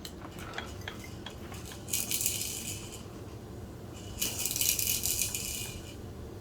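A baby's rattle toy shaken in two bursts: a short one about two seconds in and a longer one from about four seconds. Light clicks of toy parts sound between the bursts.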